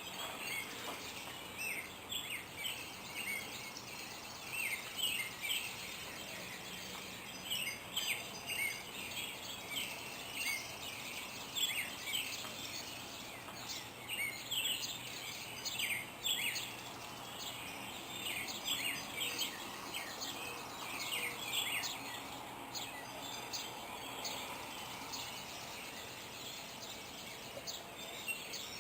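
Songbirds in a morning chorus, many short chirps and calls overlapping, with a high trill that comes back every few seconds.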